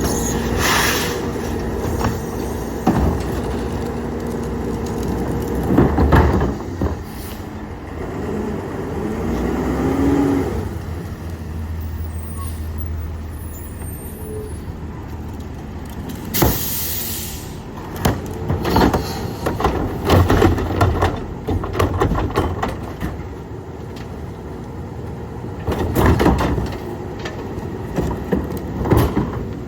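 Peterbilt 348 Loadmaster rear-loader garbage truck at work: engine and hydraulics running with a steady held tone, then a rising whine about ten seconds in. A short sharp burst of air hiss comes a little past halfway, followed by a run of bangs and clatters from the tipper and carts.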